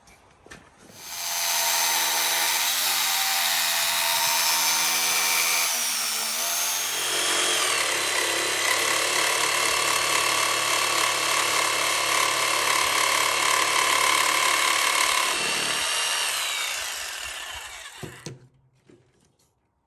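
Power tool cutting out round end pieces for a PVC pipe. Its motor runs steadily for about fifteen seconds, with a shift in pitch about six seconds in, then winds down and stops.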